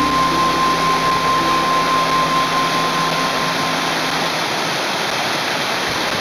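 Large waterfall with a steady, dense rush of falling water. Faint held notes of background music fade out about halfway through.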